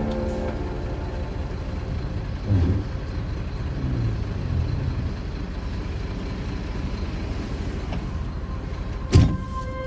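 A truck on the move: steady low rumble of engine and road noise, with a couple of soft bumps and one sharp knock near the end.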